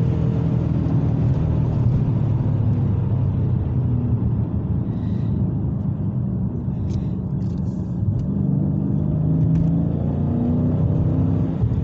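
Dodge Challenger Scat Pack's 6.4-litre Hemi V8 running on the road during and after a quick acceleration pull. It gives a steady deep drone whose pitch sags mid-way and climbs again near the end.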